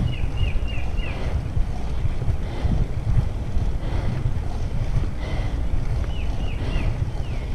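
Wind buffeting the microphone in a steady low rumble. A bird calls a quick run of four short falling chirps near the start, and a similar run near the end.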